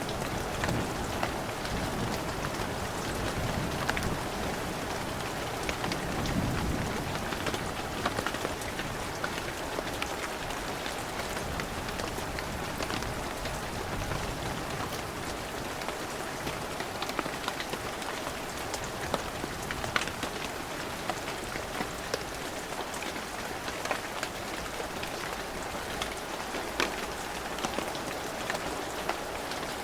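Heavy rain falling steadily, with many separate drops pattering sharply close by. A low rumble of thunder dies away over the first several seconds.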